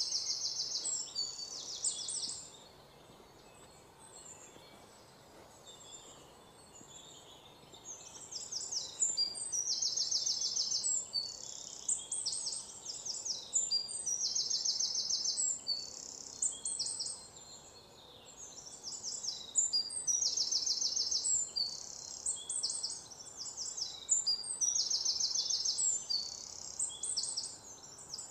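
A bird chirping in repeated high-pitched trilled phrases of a second or two, with pauses of a few seconds between them.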